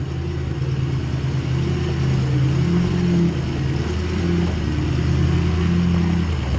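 Ford F-250 Power Stroke diesel engine running steadily under load on a climb, its pitch rising and falling a little.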